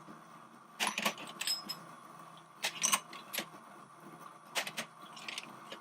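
Small glass pieces clinking and tapping against each other as they are handled, in three short clusters of clicks, a few with a brief high ring.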